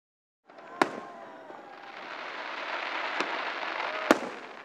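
Aerial fireworks shells bursting: a sharp bang about a second in, a smaller one past the middle and another loud bang near the end, over a wash of noise that builds between them.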